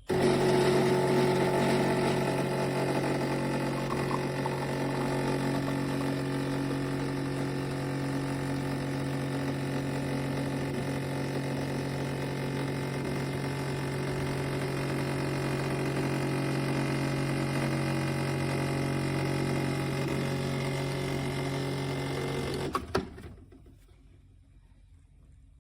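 Black+Decker BXCO1200E espresso machine's 15-bar pump running with a steady hum, then cutting off sharply with a click near the end.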